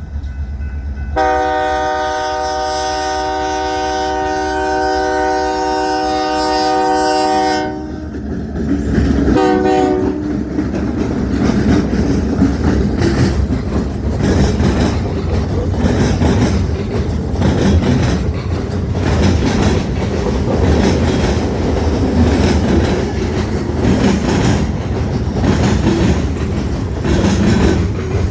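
A diesel locomotive's air horn sounds one long blast, then a short, lower one. The train then rolls past close by with a steady rumble and a quick, even clicking of wheels over the rail joints.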